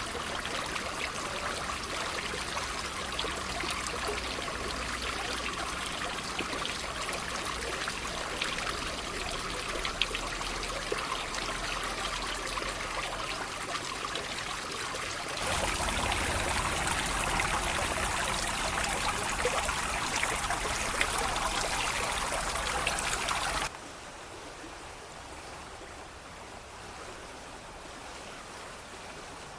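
Water trickling and babbling steadily, like a small stream. It grows louder a little past halfway, then drops suddenly to a quieter trickle near the end.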